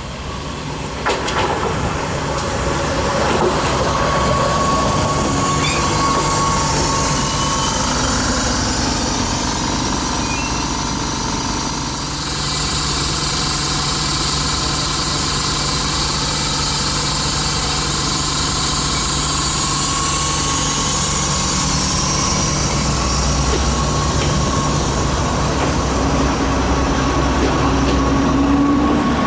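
Stadler GTW 2/6 metre-gauge diesel railcar rolling slowly past along the platform, its diesel power unit running with a steady low hum. Thin high tones from wheels or brakes ride over it.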